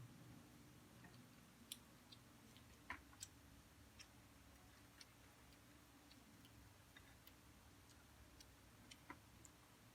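Near silence broken by a scattered handful of faint, short clicks and ticks, the small mouth and food sounds of someone eating a meal of grilled meat and rice.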